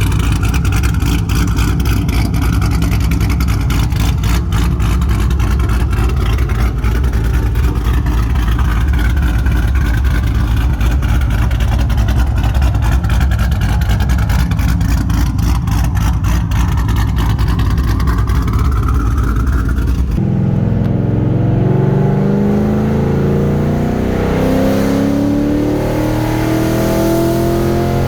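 Straight-piped, cammed 2005 3-valve V8 running with a steady, choppy low exhaust rumble. About twenty seconds in it pulls away at part throttle, the exhaust note climbing in pitch, dipping at a gear change, then climbing again.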